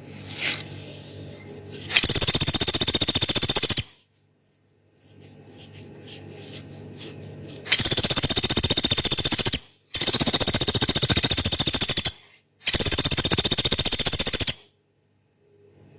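Pelatuk beras, a small woodpecker, giving long, harsh, rapid-fire rattling calls in four bursts of about two seconds each. A faint low hum is heard between the bursts.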